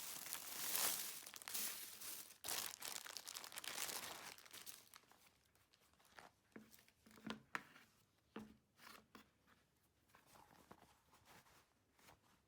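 Crinkling and rustling handling noise, dense for the first few seconds, then thinning out to scattered soft rustles and small clicks.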